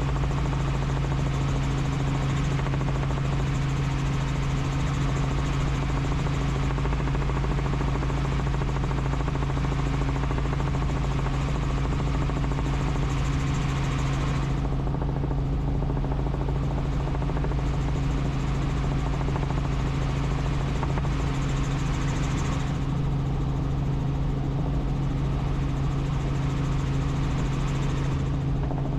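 Helicopter in flight: a steady, even drone of rotor and turbine noise with a constant low hum under a broad hiss. The hiss drops away for several seconds about halfway through and again near the end.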